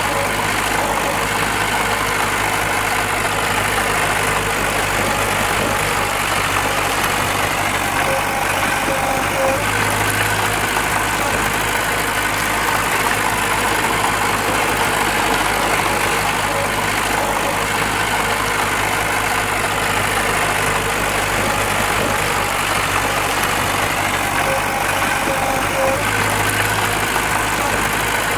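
Diesel engine of heavy earthmoving machinery (bulldozer or dump truck) running steadily, with its low note swelling slightly about a third of the way in and again near the end.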